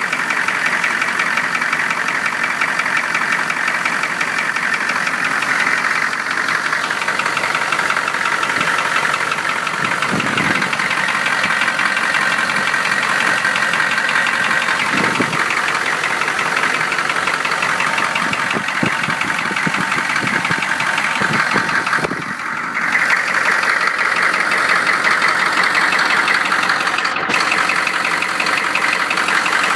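1993 GM 6.5-litre V8 diesel running with a steady, rapid knock. The owner cannot find the cause: the injectors are new and the flex plate and rockers have been checked.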